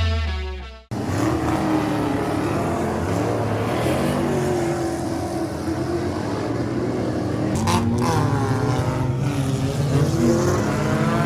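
Several dirt-track race car engines running at speed around an oval, their pitch rising and falling as they lap, after music fades out in the first second.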